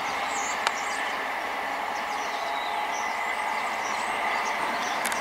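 Great Western Railway High Speed Train (InterCity 125) drawing away, its diesel power car and wheels giving a steady rushing noise with a steady high whine through it. A single sharp click sounds about two-thirds of a second in.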